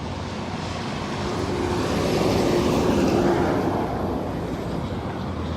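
A motor vehicle's engine over a low rumble, swelling louder to a peak about two to three seconds in and then easing off, like a vehicle passing close by.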